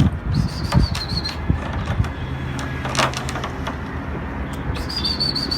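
A high, slightly falling warbled whistle, heard twice, over scattered sharp clicks and a low steady hum.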